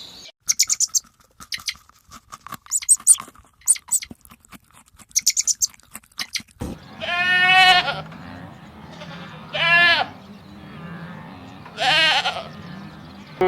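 Bleating livestock: three quavering bleats a couple of seconds apart over a steady low hum. They are preceded by bursts of rapid, high-pitched clicking chatter.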